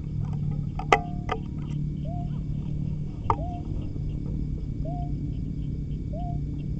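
A bird's short upward-sliding call, repeated about every second and a half, over a steady high insect chirring and a low hum. Sharp clicks come about a second in and again near the middle, the loudest sounds here.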